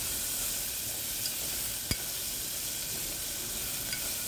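Chopped onion, green chilli and tomato sizzling steadily in hot oil in a metal pot while being stirred with a metal spoon, with a few light clicks of spoon on pot, the sharpest about two seconds in.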